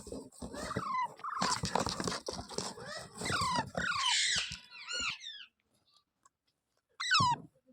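Parrot calling: a quick run of short, shrill squawks, each falling in pitch, for about five seconds. Then a pause, and one loud squawk near the end.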